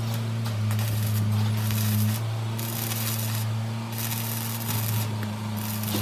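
A steady low electric hum with repeated hissing strokes, roughly one every half second to a second, from work on the woodworking machine being restored.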